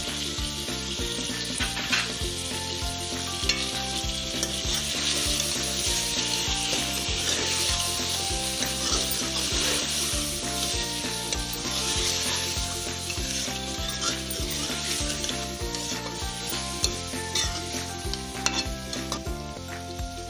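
Chicken pieces sizzling as they fry in oil with the spice mix just added, stirred in the pot, with a few sharp knocks of the spoon. This is the dry frying stage of a white chicken korma, before the tomatoes go in.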